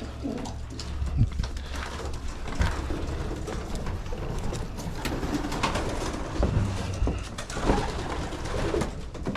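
White domestic pigeons cooing, with scattered short clicks and rustles.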